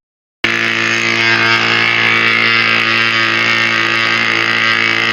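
Giant RC model aircraft's engine running steadily at a constant speed, with no change in pitch. It starts abruptly about half a second in and cuts off abruptly near the end.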